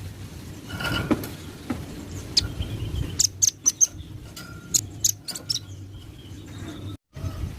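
Velvet-fronted nuthatch calling: runs of short, sharp, high chirps in quick succession over a low steady hum. The sound drops out for a moment near the end.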